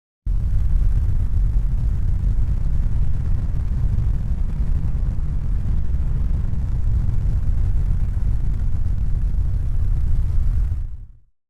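A steady low rumbling noise that starts abruptly and fades out to silence near the end.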